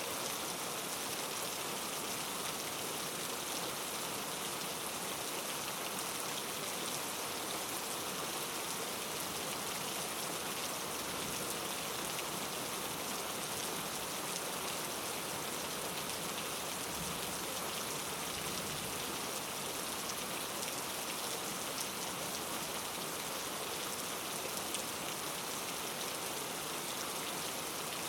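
Steady rain falling, an even hiss of many drops on a surface with fine scattered ticks of single drops.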